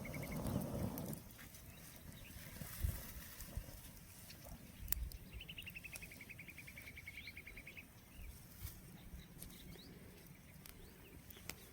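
A bird's rapid trill of evenly spaced high notes, sliding down slightly in pitch, heard twice: briefly at the start and again for about two seconds from five seconds in. A low rustle or handling noise in the first second.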